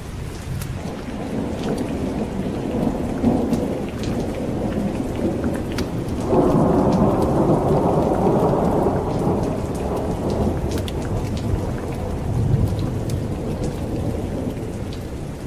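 Steady heavy rain with rolling thunder. A low rumble builds early on, a louder peal breaks in suddenly about six seconds in and rolls away over several seconds, and a smaller swell of thunder follows near the end.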